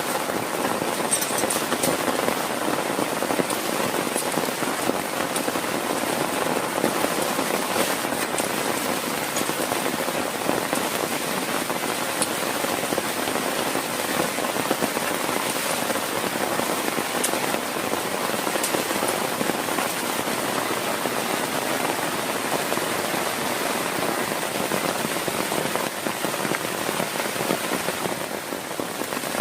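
Heavy rain falling steadily on a surface, with scattered sharper drop hits; it eases slightly near the end.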